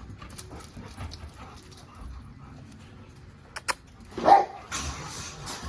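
A dog barks once about four seconds in, the loudest sound, shortly after a couple of sharp clicks; faint rustling before it and a brief noisy rustle after it.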